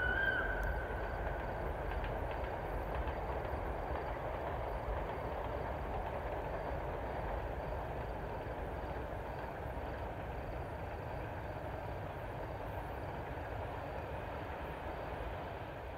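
A train running by on the rails, with a steady rumble that slowly fades as it moves away. A held horn note ends just after the start.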